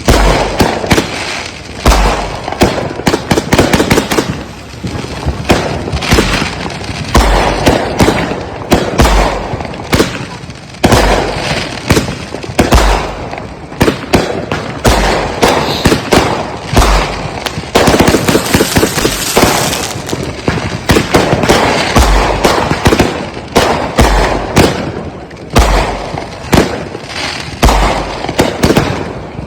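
Consumer multi-shot firework cake firing a rapid barrage: deep launch thumps about every one to two seconds, each followed by sharp bursting reports and crackling, with a hissing stretch about two-thirds of the way through.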